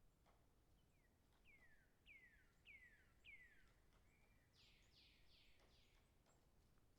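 Faint songbird song: a run of four or five clear down-slurred whistles about half a second apart, followed by a rougher series of four higher notes.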